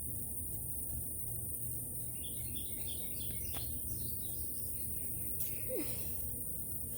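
Small birds chirping in quick runs of short notes, starting about two seconds in, over a steady low background rumble.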